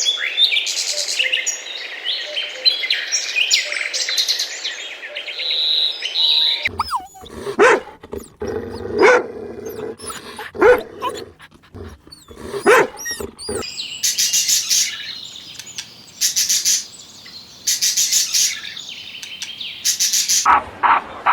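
A run of animal calls: birds chirping for the first several seconds, then a dog barking several times, then a series of loud, harsh, high bird calls.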